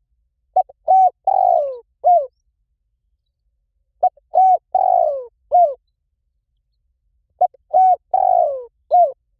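Spotted dove cooing, one phrase repeated three times about every three and a half seconds. Each phrase is a brief note, two short coos, a longer falling coo and a final short coo, with silence between phrases.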